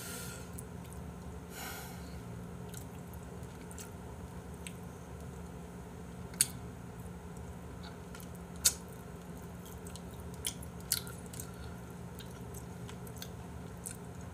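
A person chewing a mouthful of food close to the microphone, with a few sharp clicks along the way, over a steady low hum.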